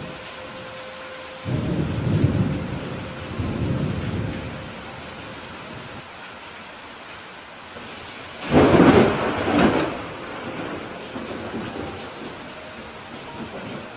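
Steady rain falling with thunder: a low rolling rumble a second and a half in, then a louder, sharper thunderclap about eight and a half seconds in that dies away over about a second and a half.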